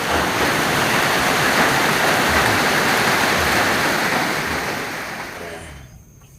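Loud, steady rush of water, fading out near the end.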